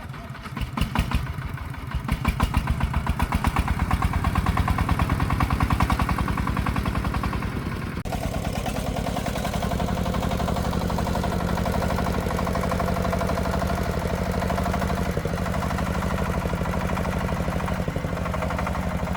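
Single-cylinder diesel engine of a công nông farm vehicle running with a rapid, even chugging. It grows louder about two seconds in and settles to a steadier, slightly quieter beat about eight seconds in.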